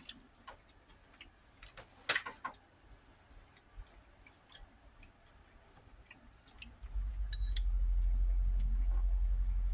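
Scattered small clicks and taps of someone eating, utensil on dish and mouth sounds while chewing. About seven seconds in, a long, low rumbling sound starts and holds steadily.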